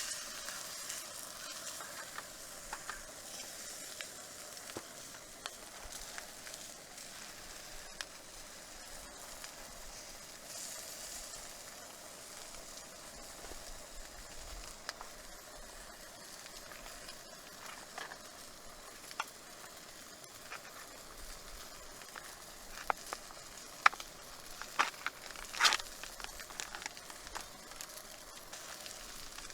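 Steady sizzling hiss over a campfire, with scattered sharp crackles and a few louder pops near the end.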